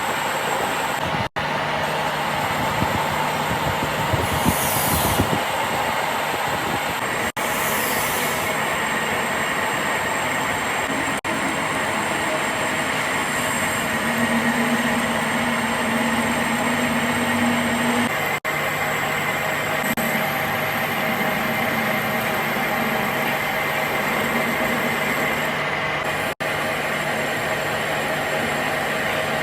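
Steady mechanical running noise with a low hum, broken by several brief cuts.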